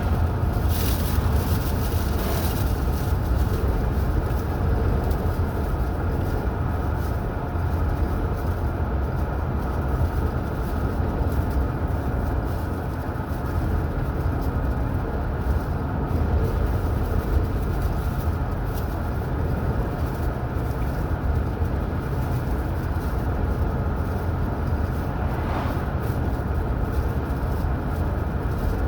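Car driving at a steady speed: continuous road and engine noise, strongest in the low rumble, with no change throughout.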